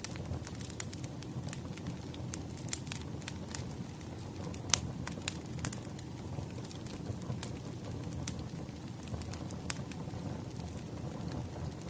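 Wood fire crackling: a steady low rush with scattered sharp pops, one louder pop near the middle.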